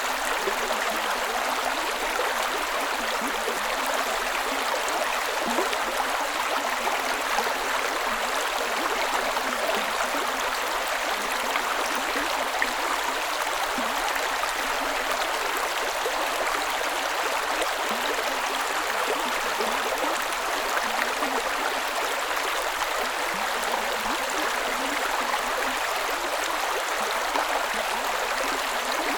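Creek water running and burbling over rocks, a steady rushing splash.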